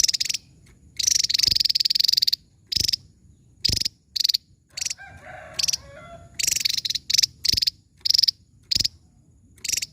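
Javan tesia calling in sharp, rapid rattling bursts, about a dozen in all: most are brief, one lasts over a second, with short pauses between them.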